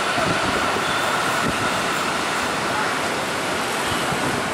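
Electric commuter train approaching: a steady running noise with a faint, steady high tone over it.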